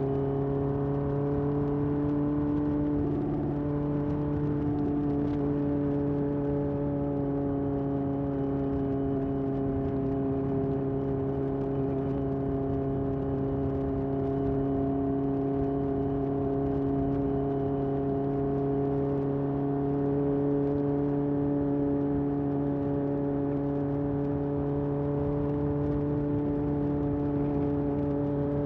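Honda CB750F's air-cooled inline-four running through a vintage Yoshimura exhaust, holding a steady cruising speed with an even, unchanging exhaust note after a small shift in pitch about three seconds in.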